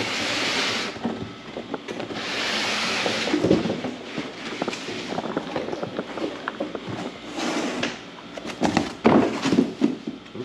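Packaging being handled and unwrapped: three bursts of rustling about a second long each, with scattered clicks and knocks that are loudest near the end.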